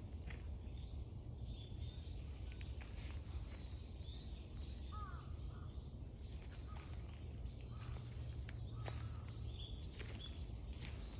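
A chorus of small birds chirping and singing, many short high notes in quick succession, densest in the first half, over a steady low rumble.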